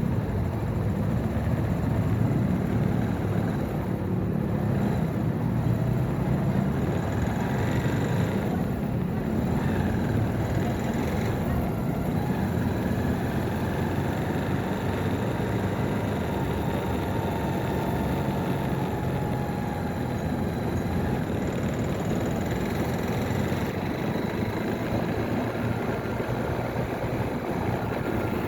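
Motorcycle engine running steadily while riding, mixed with road and traffic noise.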